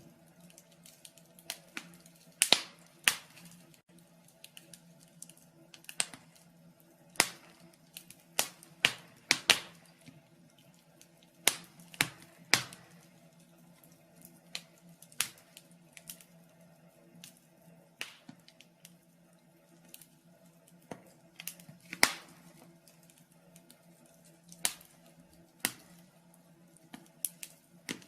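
Wood fire in a fireplace crackling: irregular sharp pops and snaps, a few of them louder, over a faint steady hum.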